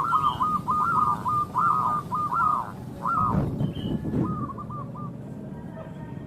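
Zebra dove (perkutut) cooing: a fast run of short, repeated coo notes, about three a second, that breaks off after about three seconds. A few softer notes follow, along with a short stretch of low rustling noise.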